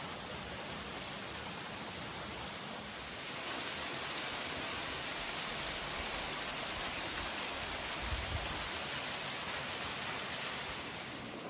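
Waterfall rushing: a steady, even wash of falling water, a little louder from about three and a half seconds in.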